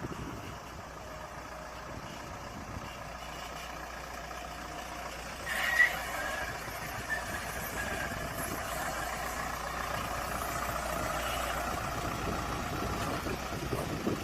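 Engine of a bus-train dual-mode vehicle running steadily, growing slightly louder, with a short high-pitched sound about six seconds in.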